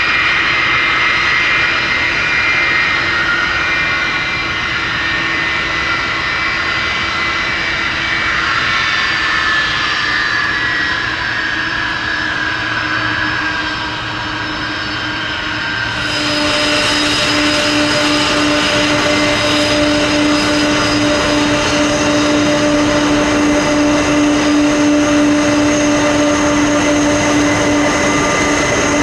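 Jet airliner engines running loud, with a whining tone that slowly falls in pitch. About halfway through the sound changes abruptly to a steadier engine noise with a strong low hum and high steady whines.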